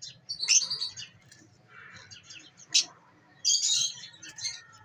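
Aviary chicks chirping in short, high, irregular calls, loudest about half a second in, again near three seconds, and in a cluster between three and a half and four seconds.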